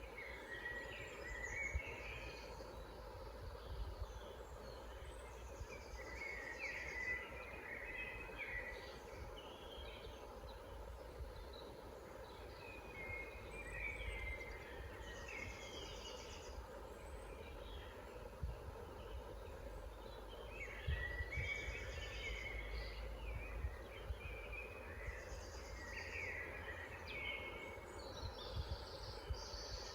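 Songbirds singing in woodland, short chirping phrases from several birds coming every few seconds, over a steady low rumble.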